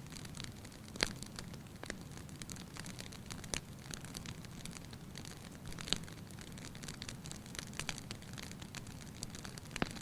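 Fireplace fire crackling, with sharp pops scattered through it over a steady low rumble. The loudest pops come about a second in and about six seconds in.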